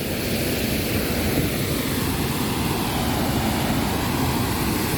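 An airplane passing overhead, a steady rushing drone with a slowly sweeping hollow tone, over the continuous rush of the Lower Duden Waterfall pouring into the sea.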